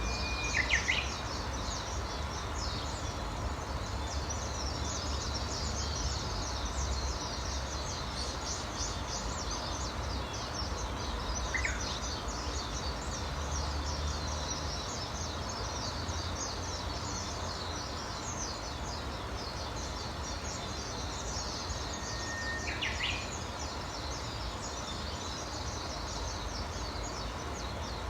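Birds calling in a field recording: a dense, high-pitched twittering runs throughout, and three louder whistled calls stand out near the start, in the middle and near the end, each a held note that ends in a quick downward slide. A low rumble runs underneath.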